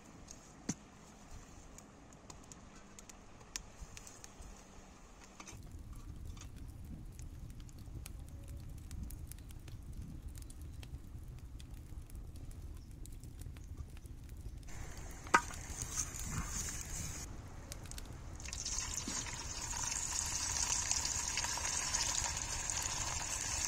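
Cooking sounds: light clicks of handling at first, then a low steady rumble and a single sharp clack about fifteen seconds in. For the last few seconds food sizzles steadily as it fries in a hot pan.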